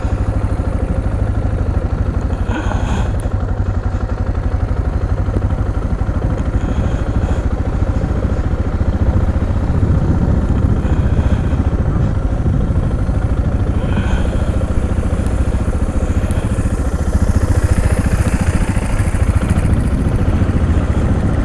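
Motorcycle engine running steadily at idle close by, with a couple of faint clicks.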